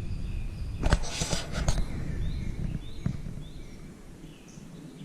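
Outdoor ambience with small birds chirping, short high calls scattered through it. About a second in come a couple of sharp clicks and a brief rustle.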